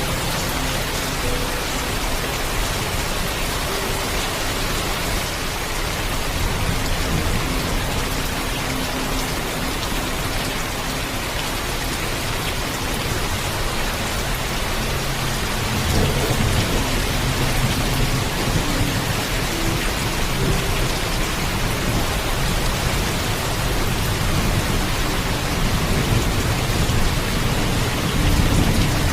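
Heavy, steady rainfall with low rolling thunder underneath. The rumble swells about halfway through and again near the end.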